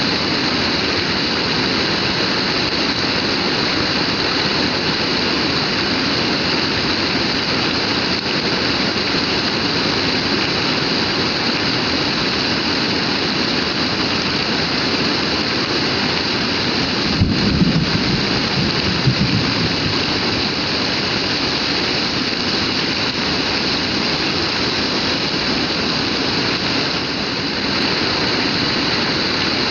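Heavy rain falling steadily, with a brief low rumble a little past halfway.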